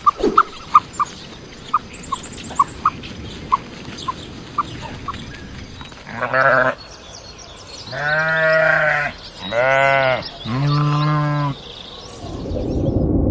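A goat bleating four times in loud, quavering calls. These follow a run of short, sharp, high chirps in the first few seconds.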